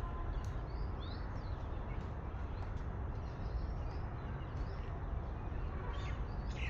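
Birds chirping in short, scattered calls with quick pitch slides, over a steady low rumble.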